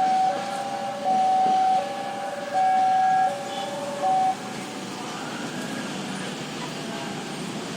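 A two-tone warning signal alternating high and low, each note about three quarters of a second, that stops about four seconds in. It leaves a steady rumble from the shunting train.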